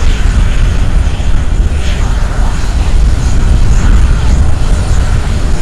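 Boeing C-17 Globemaster III's four turbofan jet engines: a loud, steady, deep roar.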